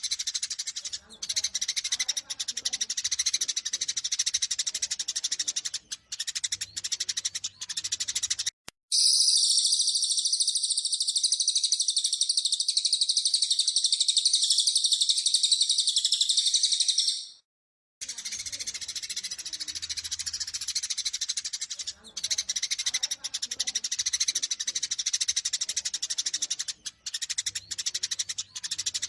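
Eurasian tree sparrows chattering in fast, excited fight calls, a dense run of high chirps. Partway through this gives way for about eight seconds to a denser, unbroken high twittering, then breaks off briefly before the chirping chatter returns.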